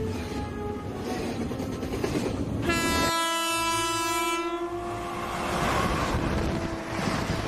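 A train running with a rumbling noise; about three seconds in its horn sounds, one long blast that drops slightly in pitch and fades out after about four seconds.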